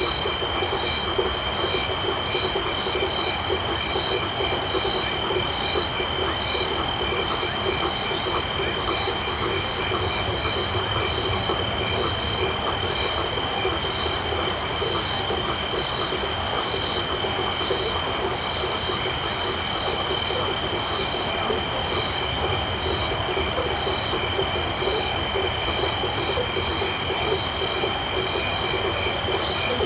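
Tropical night chorus of insects and frogs. Insects trill steadily at several high pitches while a higher chirp repeats a little faster than once a second, over a dense low chorus of frog calls.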